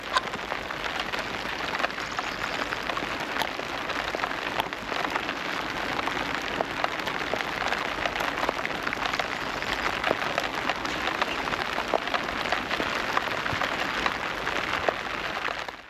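Rain falling steadily, with many separate drops ticking sharply close by; the sound fades out near the end.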